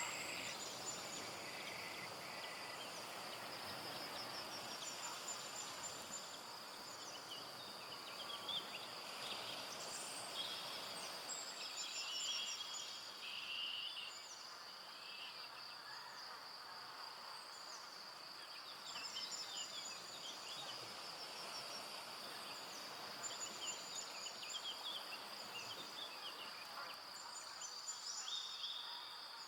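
Forest ambience: a steady, high insect trill runs throughout, with many short, high bird chirps and calls scattered over it.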